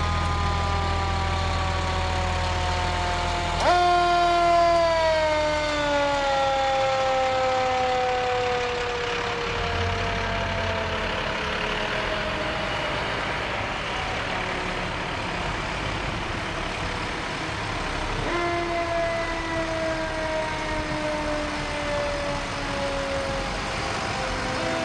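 A fire truck's mechanical siren is given short bursts, twice. Each time it jumps up quickly in pitch, then winds down slowly over several seconds. A truck's diesel engine idles beneath.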